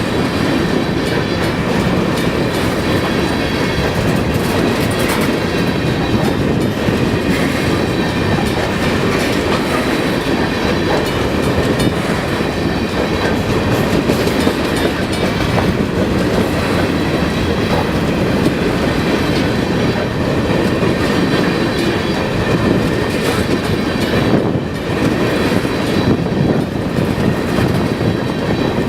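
Freight train of hopper cars rolling past: a steady, loud rumble with the clatter of steel wheels on the rail joints.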